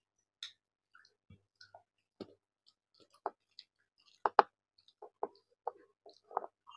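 Someone chewing rice and fish curry: a scatter of short, wet mouth clicks and smacks, with a louder pair about four seconds in.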